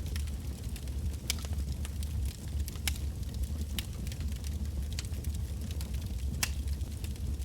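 Wood fire burning: irregular sharp crackles and pops from the burning logs, a few louder snaps among them, over a steady low rumble of the flames.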